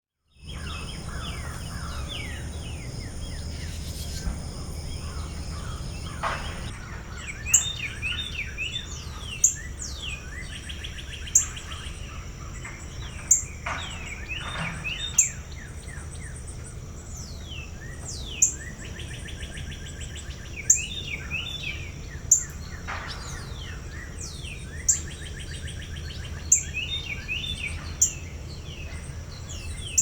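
Wild birds calling and singing, with many quick falling whistles and trills, over a steady high insect drone. From about seven seconds in, one loud, short, high note repeats every two seconds or so.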